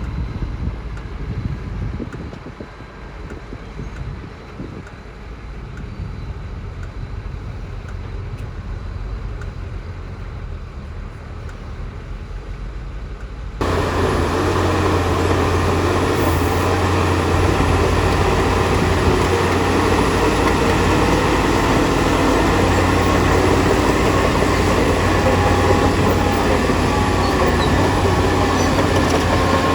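Heavy diesel earthmoving machinery running, a low engine rumble. About halfway through the sound jumps abruptly to a much louder, closer steady engine drone.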